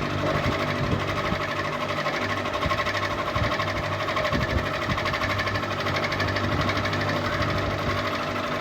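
Ceiling fan running steadily: a low hum with a fast, even rattle over it.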